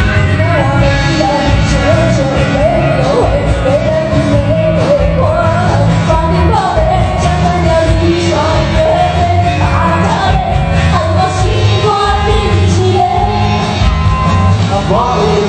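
Band playing a song live, with a lead voice singing the melody over a steady beat and bass.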